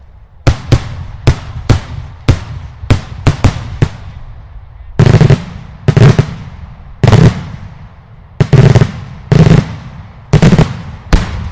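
Daylight fireworks: a rapid, irregular string of sharp, loud shell bursts, then, from about five seconds in, some seven heavier bangs with a deep rumble, roughly a second apart.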